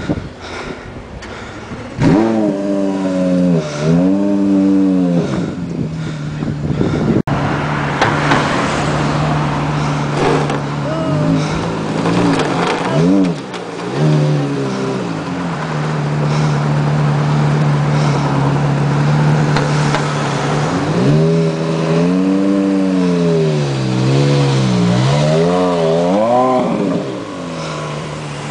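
Porsche Carrera GT V10 with straight-piped exhaust idling steadily, then revved in quick blips that rise and fall back to idle: twice after about two seconds, three shorter ones in the middle, and a run of four near the end.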